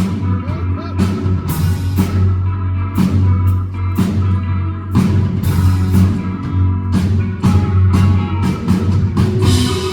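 Live rock band playing an instrumental passage between sung lines, drum kit keeping a steady beat over bass and guitar.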